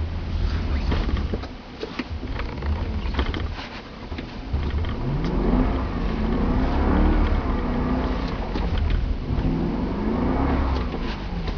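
BMW E90 M3's 4.0-litre V8 revving, climbing about five seconds in, holding, easing off, then rising and falling once more. Before that, a low rumble with scattered clicks.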